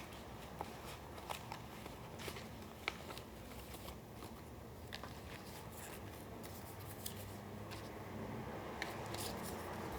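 Paper being handled for a collage: scattered light crackles and small taps of paper sheets and cut pieces being moved and pressed.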